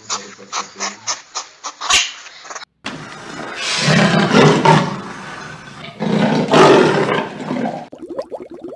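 A rapid string of pulses, about five a second, that stops after about two and a half seconds; then a large animal gives two loud, rough calls, each over a second long, about two seconds apart.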